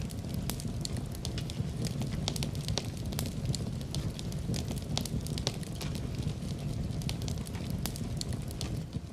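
Wood fire burning in a fireplace: a steady low rumble of flames with frequent irregular crackles and pops of burning logs.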